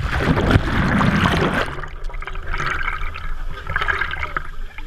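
A big splash as a person jumps into a waterfall's plunge pool: a loud rush of churned water for about a second and a half, dying down to quieter splashing and water movement.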